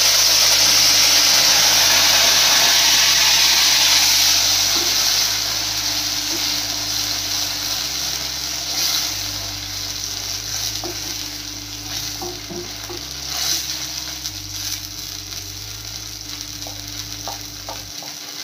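A wet tomato-and-spice paste frying in a pan of hot tempering oil. It sizzles loudly as it first hits the oil, then the sizzle slowly dies down, with a few light knocks of a stirring spoon later on.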